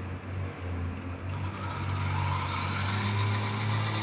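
1:24-scale RC car's electric motor and gearbox whirring as it drives in reverse, starting up about a second in with a faint steady whine. In reverse it runs with only a slight noise, unlike the annoying noise its center gearbox makes going forward.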